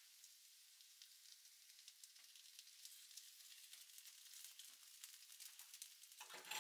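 Sliced potatoes frying in oil in a frying pan: a faint, steady sizzle with small crackles. Near the end there is a brief louder scrape or stir in the pan.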